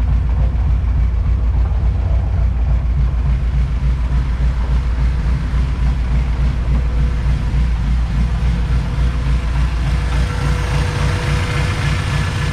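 Freshly built high-compression Honda B20VTEC four-cylinder engine idling steadily, running relatively smoothly on a richened fuel trim while still untuned.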